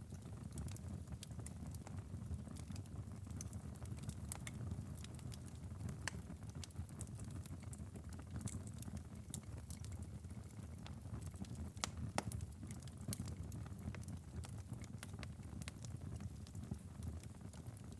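Wood fire crackling in a fireplace: scattered sharp pops and snaps, irregular, over a steady low rumble, with one louder pop about twelve seconds in.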